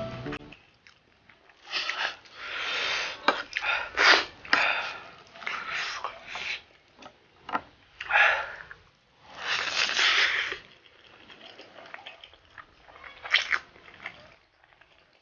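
Spicy Buldak ramen noodles being slurped and chewed close to the microphone: several long noisy slurps, with wet clicks of chewing between them and fainter chewing near the end.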